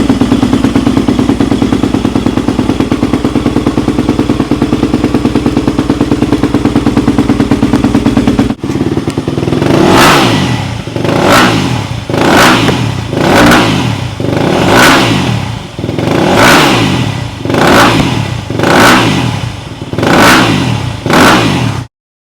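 2007 Yamaha YZ250F's 250 cc four-stroke single-cylinder engine through its stock exhaust, idling steadily, then after a cut blipped about ten times in quick succession, each rev rising and falling roughly once a second.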